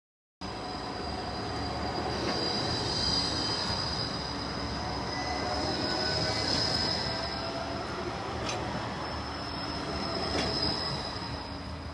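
Tram wheels squealing against the rails in a steady, high-pitched squeal over the rumble of the running tram. It starts abruptly, and two sharp clicks come in the second half.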